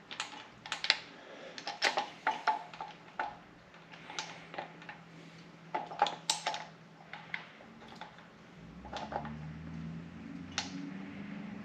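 Metal engine parts clicking and clinking as a rocker arm assembly is handled and worked into place on a cylinder head, a quick irregular run of sharp clicks, thinning out after about seven seconds. A faint low hum starts about eight and a half seconds in.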